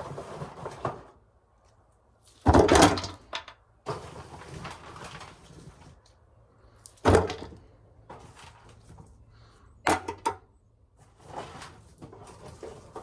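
Ears of corn dropped into a pail: several separate thuds and rattles, the loudest about two and a half seconds in, with rustling of ears being handled between the drops.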